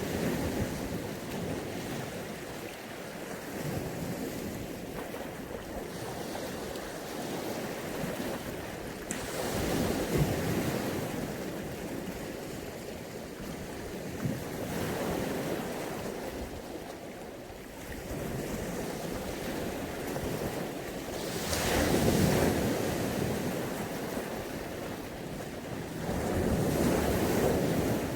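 Mediterranean sea waves breaking and washing up on the beach, the rush of surf swelling and falling back every five to seven seconds, with the largest wave about two-thirds of the way through.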